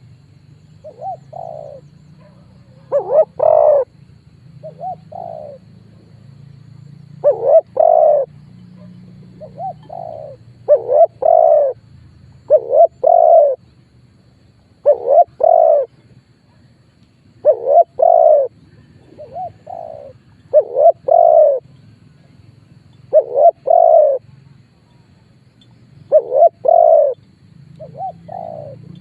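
Spotted dove cooing: a loud phrase of short coos repeated every two to three seconds, the call played as a decoy to draw rival wild doves in. A faint low hum runs underneath.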